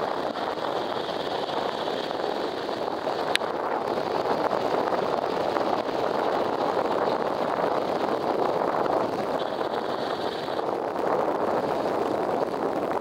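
Steady wind rushing over the microphone, mixed with water rushing along the hull of a sailboat under sail, with a single sharp click about three and a half seconds in.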